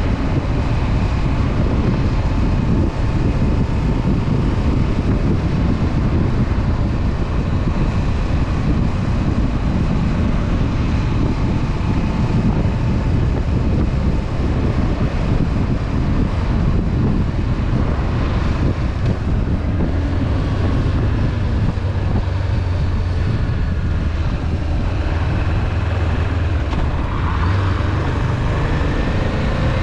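Honda CB500F's parallel-twin engine running steadily at riding speed, with wind rushing over the camera microphone.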